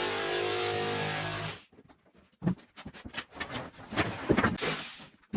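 A power tool's motor runs steadily and cuts off abruptly about a second and a half in, followed by scattered, irregular knocks and clatter.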